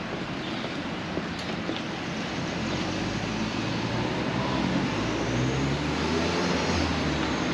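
A steady rushing noise, with the low hum of a motor vehicle's engine building up over the second half.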